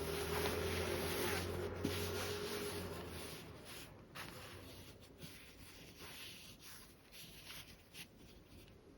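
A sewing machine's motor runs steadily, then stops about three seconds in. Light rubbing and rustling of fabric being handled follows.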